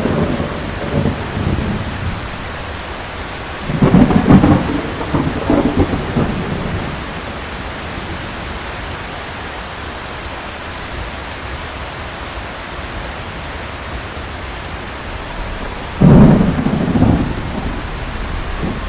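Steady heavy rain with two rolls of thunder, one about four seconds in and another near the end, each rumbling for two to three seconds.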